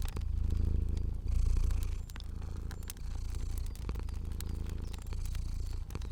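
Domestic cat purring steadily, a low rumble that swells and eases with each breath, with scattered small crackles of a wood fire.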